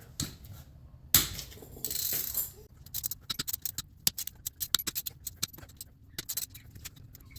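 Hand tools and bolts clinking on the metal transaxle case as the case bolts are loosened and handled. There is a sharp knock about a second in, a short scrape, then a run of irregular clicks.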